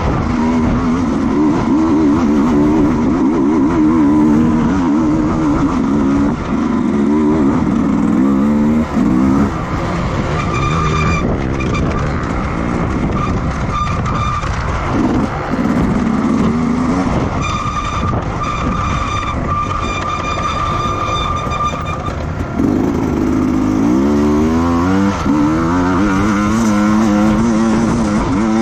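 Racing motorcycle engines at high revs, their pitch climbing and dropping again and again with throttle and gear changes. From about ten seconds in, a steady high whine takes over for some ten seconds, and then the rising and falling revving returns.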